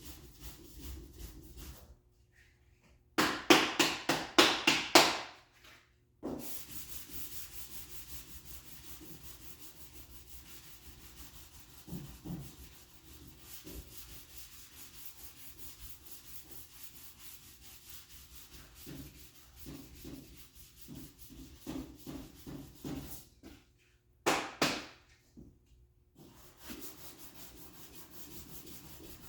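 Sandpaper on a hand sanding block rubbing back and forth over high-build primer, a steady scratchy hiss. Twice it breaks into a run of loud, quick strokes at about four a second, and it stops briefly a few times.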